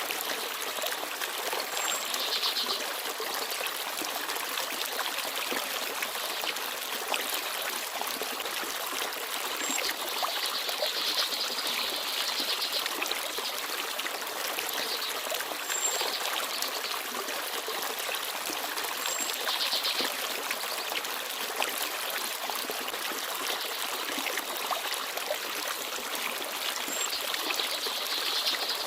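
Small forest stream babbling and trickling steadily, with a few brief high bird chirps here and there.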